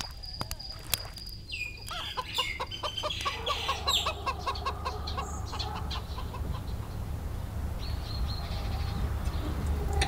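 Bird calls: a quick run of short repeated clucking notes, about five a second, starting a couple of seconds in, then scattered calls, over a low steady rumble.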